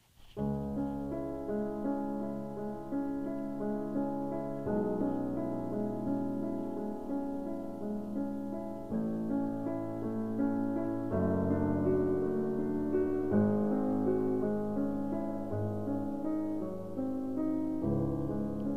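Piano music: held chords of several notes that change every two to five seconds.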